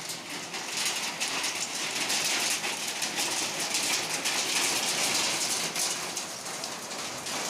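Heavy rain with hailstones falling, a dense steady clatter of many small impacts.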